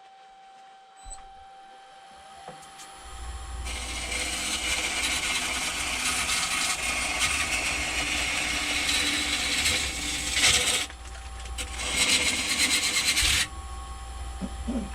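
Wood lathe running with a turning tool cutting a spinning poplar blank: a low motor hum comes up, then a steady hissing cut of shavings for several seconds, a short break, and a second, shorter cut.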